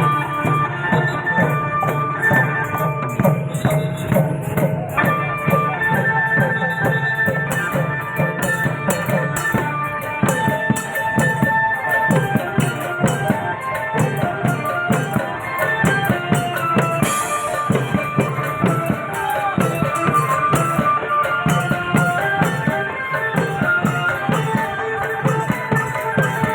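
Thai klong yao long-drum band playing: drum strokes and jingling percussion beneath a held melody line.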